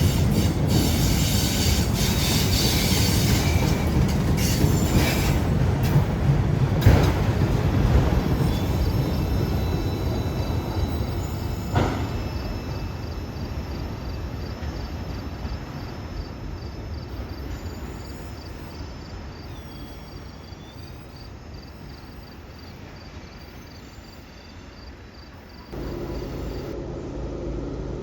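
A CSX freight train passing, its wheels clicking over the rail joints with some wheel squeal, the noise fading steadily as the train draws away. About 26 seconds in, a steady low hum starts abruptly.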